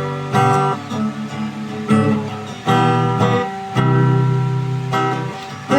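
Acoustic guitar strumming chords between sung lines of a song.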